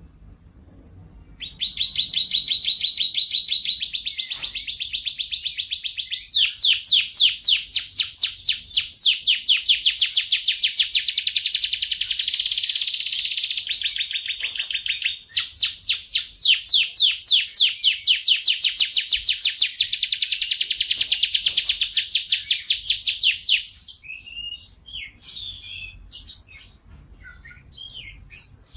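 Domestic canary singing: a long song of fast trills, each phrase a rapid run of repeated notes, switching to a new phrase every few seconds. Near the end the song gives way to softer, scattered twittering notes.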